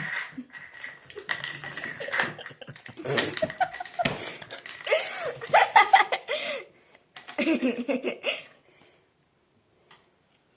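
People laughing and chuckling in short bursts, mixed with a few sharp knocks and slaps.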